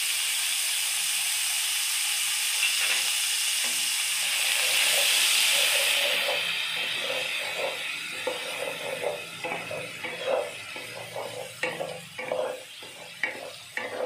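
Ground masala paste sizzling loudly in hot oil in a kadhai. The sizzle fades after about six seconds, and a wooden spatula then scrapes and stirs the paste against the pan in quick, irregular strokes.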